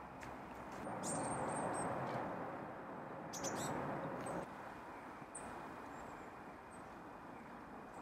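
Small woodland birds giving a few short, very high chirps over a steady background hiss that grows louder for a few seconds in the first half.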